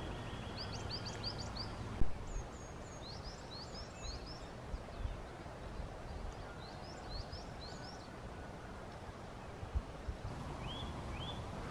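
Small birds chirping in quick runs of short rising calls, in several bursts, over a low steady outdoor rumble. A single sharp click about two seconds in, and a smaller one near the end.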